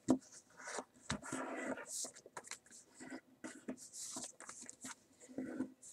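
Sheet of paper being handled and creased by hand: short crackles, rustles and scrapes as a fold is pressed sharp.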